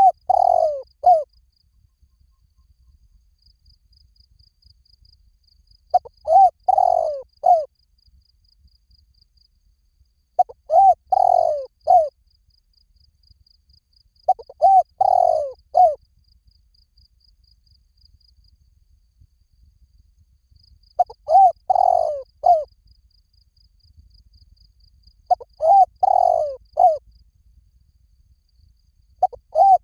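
Spotted dove cooing: a phrase of three or four quick notes, repeated about seven times at intervals of four to six seconds.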